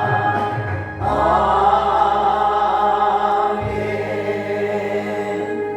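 Group of voices singing a hymn, moving to a new chord about a second in and holding it as one long final chord.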